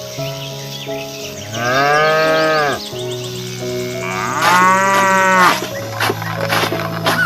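A cow mooing twice, two long calls a couple of seconds apart, over background music.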